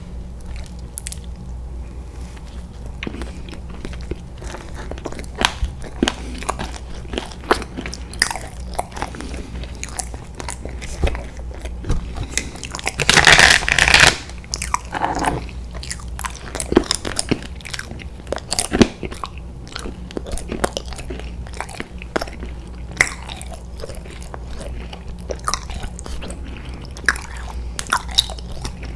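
Close-miked eating of chewy candy: many small crunches and wet mouth clicks from biting and chewing, with a louder run of crunching about halfway through, over a steady low hum.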